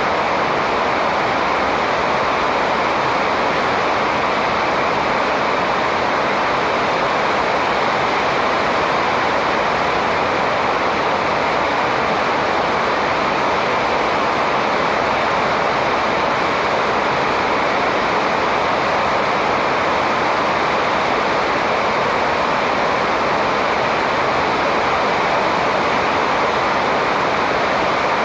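Steady, even rushing noise that does not change, with no bird calls standing out.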